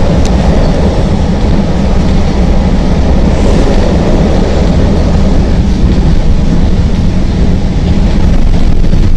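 CTA Green Line elevated rail car running between stations, heard from inside the car: a loud, steady rumble of wheels on the rails and traction motors, growing a little louder near the end.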